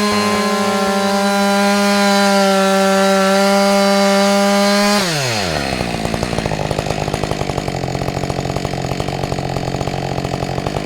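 Husqvarna 555 two-stroke chainsaw held wide open at a steady high pitch during its AutoTune tuning run. About five seconds in the throttle is released and the revs fall quickly to a rough, pulsing idle.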